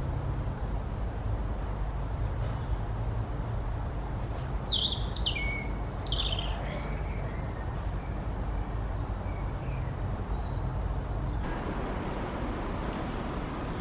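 Small songbird singing: one short, bright phrase of quick sweeping notes about halfway through, with a few faint calls before and after. A steady low rumble runs underneath and grows fuller near the end.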